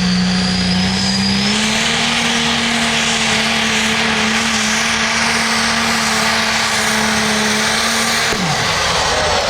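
Competition pulling vehicle's engine held at full throttle during a hook down the track, with a high whistle over it at first. The pitch steps up about a second and a half in, holds steady, then falls sharply near the end as the throttle is let off.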